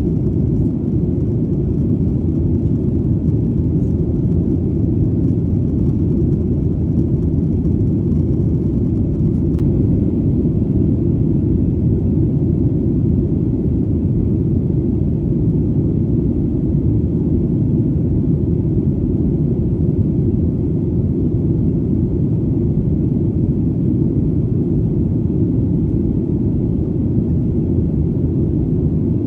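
Airplane engine noise in flight: a steady, loud low rumble.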